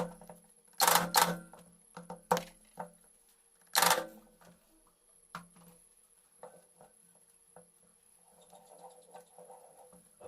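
Sharp metallic clinks and knocks of hand tools and engine parts being handled and set down during motorcycle engine work, a few single strikes a second or more apart, with a light rattle near the end. A faint steady hum runs underneath.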